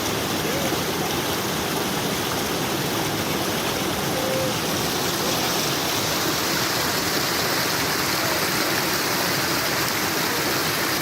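Forest stream flowing and splashing steadily over rocks, a constant rushing of water.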